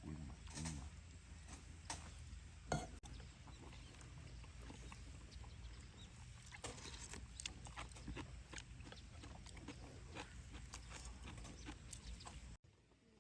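Firewood crackling in a campfire: irregular small pops and clicks over a low steady rumble, with one louder pop a little under three seconds in. The sound cuts off suddenly near the end.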